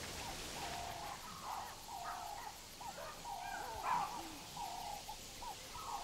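Birds calling at dusk: a run of short, repeated calls, about two a second.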